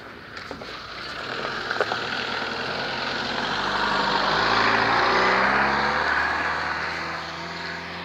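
A motor vehicle passing by, its engine and road noise swelling to a peak about five seconds in and then fading away.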